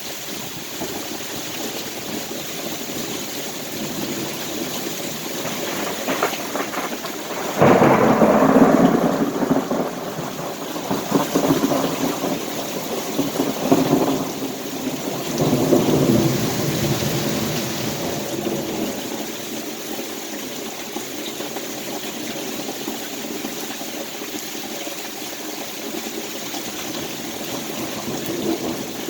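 Heavy rain falling steadily during a strong thunderstorm, with a loud clap of thunder about a quarter of the way in that rolls on in several rumbles for about ten seconds before the rain alone carries on.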